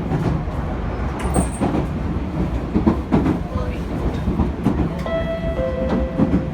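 Inside a Japanese commuter train car in motion, a steady low rumble with wheel-on-rail clatter. A pitched tone comes in about five seconds in, drops a step in pitch and lasts about a second and a half, as the train nears its stop.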